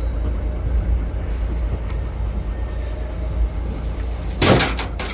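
Steady low rumble of a truck engine idling, with one short, loud burst of noise about four and a half seconds in.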